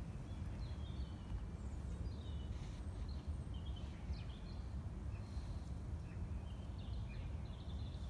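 Small birds chirping, with short high notes scattered throughout, over a steady low rumble of background noise.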